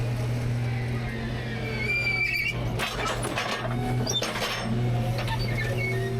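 Rear-load garbage truck's engine and hydraulics running with a steady drone while trash in the hopper is crushed: a brief squeal about two seconds in, then a stretch of cracking and clattering.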